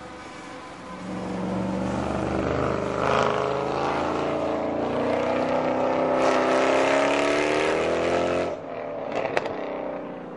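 Mercedes-Benz SL63 AMG's 6.2-litre V8 accelerating hard, its note rising steadily in pitch for several seconds. The engine note cuts off abruptly, and a couple of short, sharp pops follow.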